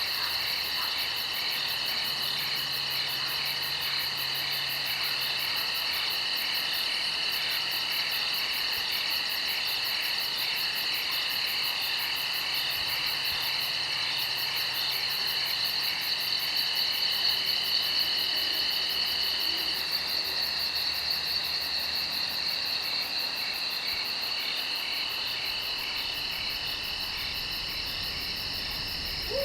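Steady night chorus of crickets and other insects, trilling at several high pitches at once, with a very fast regular pulse above them.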